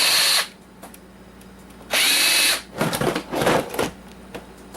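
Cordless drill-driver backing screws out of the plastic base of a coffee maker in short bursts, two bursts of motor whine about two seconds apart, with some rattling in between.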